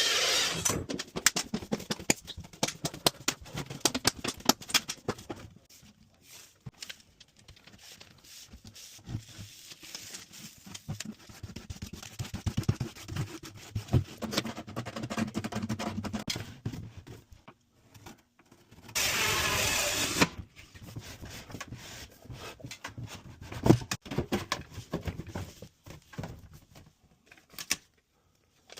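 Clattering, knocking and scraping of hand work on dryer vent pipe, in irregular bursts with short pauses. About two-thirds of the way through, a steady noise runs for a second or two and cuts off.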